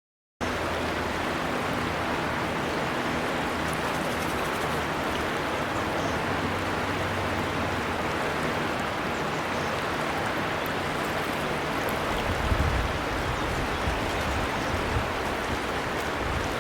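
Steady rush of flowing river water, cutting in suddenly about half a second in after silence, with deeper swells in the flow near the end.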